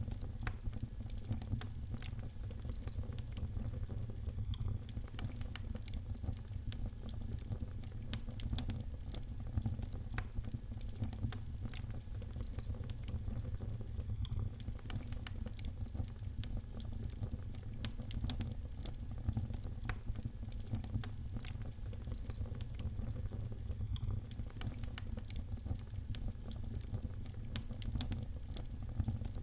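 Fire crackling in a fireplace: a steady low rumble of flames with frequent quick pops and snaps.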